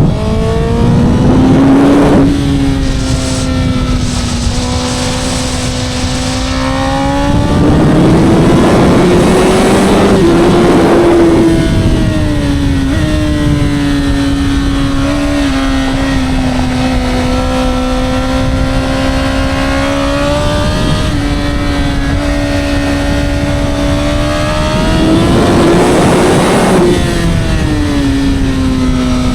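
On-board sound of a Honda CBR1000RR's 999cc inline-four engine and exhaust running at a fairly even pitch under light to moderate throttle, with gentle rises and a sudden drop about twelve seconds in. Three louder stretches of rushing noise come in as it pulls harder: at the start, around eight to eleven seconds, and near twenty-five seconds.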